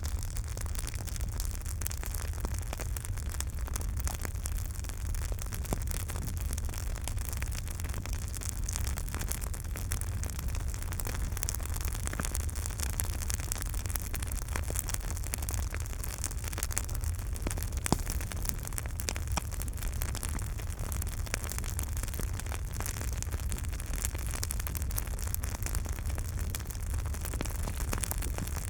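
Campfire crackling, with frequent small sharp pops over a steady low rumble and hiss. One pop stands out louder about two-thirds of the way through.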